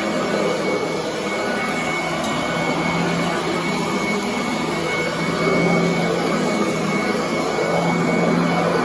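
Commercial upright vacuum cleaner running steadily over carpet, a constant motor hum with a thin high whine, swelling slightly in loudness as it is pushed back and forth.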